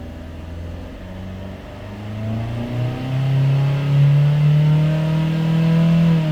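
Suzuki S-Cross's 1.6-litre M16A four-cylinder petrol engine revved from idle about two seconds in and held at high revs for about three seconds. Near the end the throttle is released and the revs fall away quickly.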